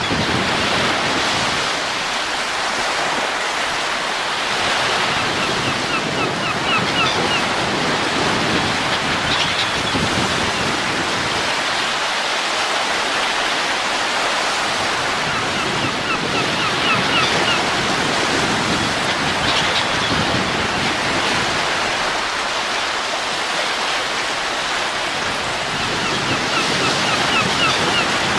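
Steady rushing wind noise that swells and eases in slow gusts. Short runs of faint high squeaks recur about every ten seconds.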